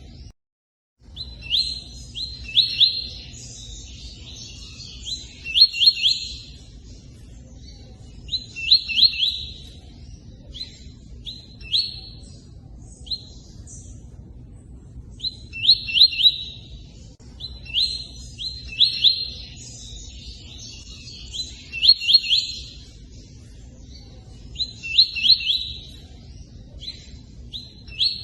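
A tui-tui bird singing its cutting song: short bursts of quick, high, falling notes, repeated every two to four seconds. Under it runs a steady low rush of running water. The sound drops out completely for about a second at the start.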